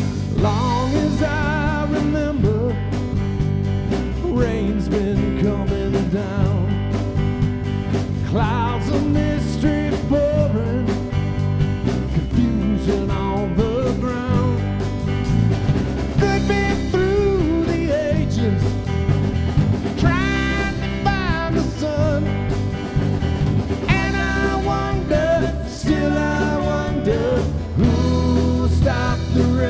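A rock band playing a song: guitars over bass and drums with a steady beat, and a lead vocal singing.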